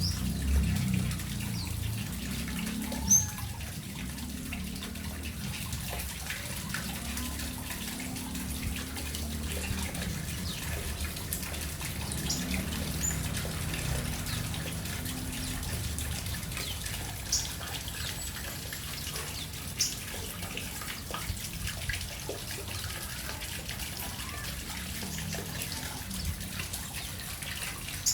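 Water trickling and splashing steadily where birds bathe, with a few brief high bird chirps scattered through it.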